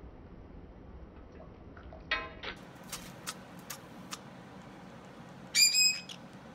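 Pet bird giving a short call, then four small, sharp sneezes about half a second apart, then a loud, high call near the end.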